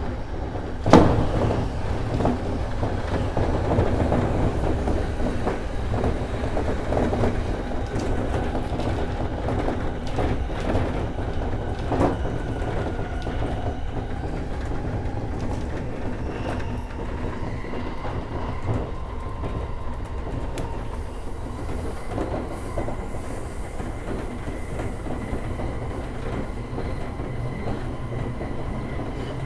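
E231 series electric commuter train running at speed, heard from inside the leading car: steady rumble of wheels on rail with clatter over joints, and a sharp knock about a second in and another near twelve seconds. Faint steady tones come in from about seventeen seconds on.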